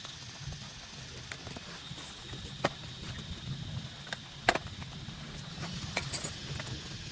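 Steady rain with irregular sharp taps and clinks on top. The loudest taps come about two and a half and four and a half seconds in, with a few more around six seconds.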